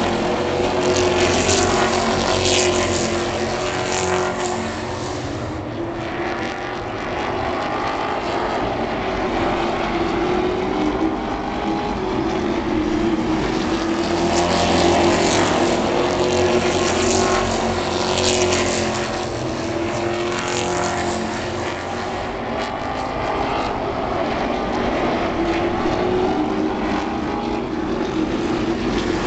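Engines of a field of racing super trucks running hard around an oval, swelling louder as the pack passes close, near the start and again about halfway through.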